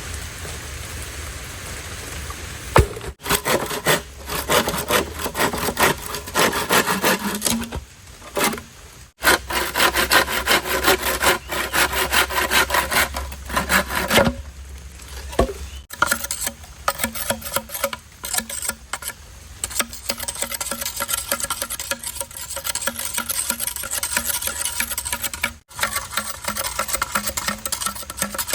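Steady rain hiss, then wood being sawn by hand in quick, repeated back-and-forth strokes that stop and restart several times.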